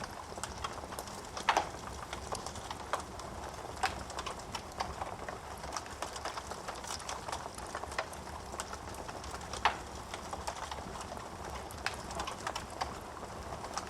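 Wood fire crackling in a fireplace: a steady run of small snaps and ticks, with two louder pops from the burning wood.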